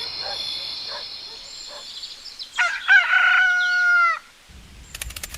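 A rooster crowing once, a long held cock-a-doodle-doo that falls away at the end. A fading high ring comes before it, and a rapid run of sharp clicks follows near the end.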